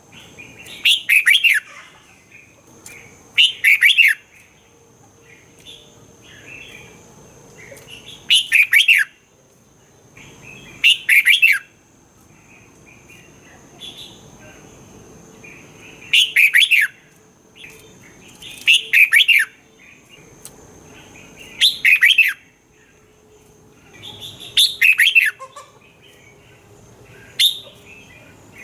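Red-whiskered bulbul singing loud, short warbled phrases, repeated about every two to three seconds.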